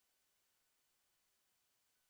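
Near silence: only faint steady background hiss.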